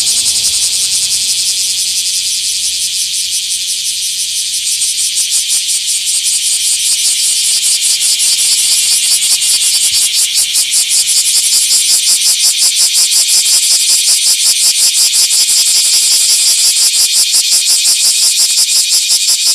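Bear cicadas (Cryptotympana facialis) singing, a loud, rapidly pulsing buzzing song that swells a little after a few seconds.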